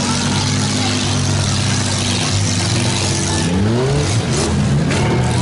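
Demolition derby minivan engines running hard under load, one revving up and falling back in several swells from about two seconds in.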